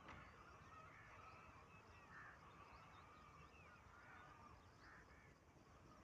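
Faint scattered bird calls and chirps over a low background rumble.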